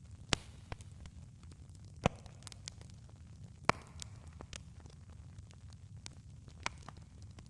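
Campfire crackling: a steady low rumble of burning wood with sharp snaps and pops, three loud pops in the first four seconds and smaller snaps between and after.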